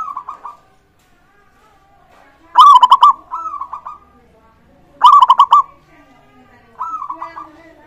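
Zebra doves (perkutut) singing their rapid pulsed cooing song. The loudest phrases come twice, about two and a half and five seconds in, with quieter phrases near the start, after the first loud one and near the end, over fainter calls in the background.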